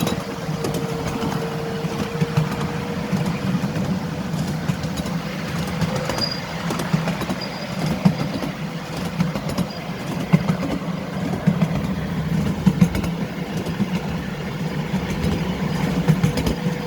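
Miniature railway train running along the track: a steady low hum with frequent clicks and rattles from the wheels and cars.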